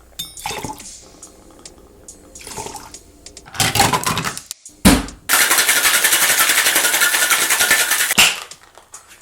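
Cocktail shaker being filled and shaken: ice and liquid clatter in, the shaker is closed with a sharp knock, then ice rattles hard and fast inside it for about three seconds before a final knock.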